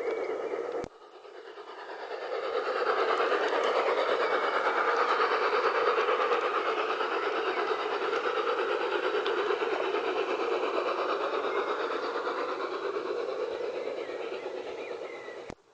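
LGB G-scale garden railway locomotive running along the track, its motor, wheels and onboard sound unit heard together as a continuous mechanical running noise. The sound cuts off abruptly about a second in, comes back quieter and builds up over the next couple of seconds, eases slightly toward the end, and cuts off again just before the end.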